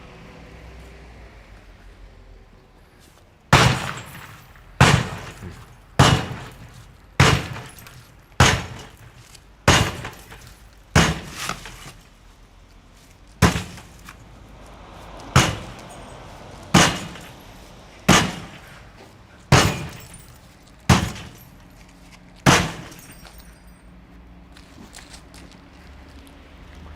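Sledgehammer striking a pane of P7B-rated armor glass about fourteen times, roughly one blow every second and a half, each a sharp crack of breaking glass with a short ringing tail. The glass gives way quickly under the blows.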